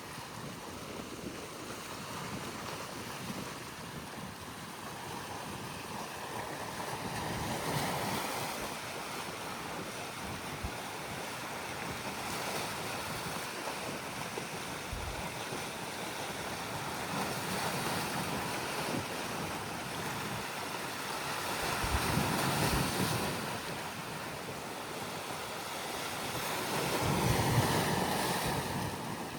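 Red Sea waves washing in and drawing back, rising to louder surges every several seconds, with wind on the microphone.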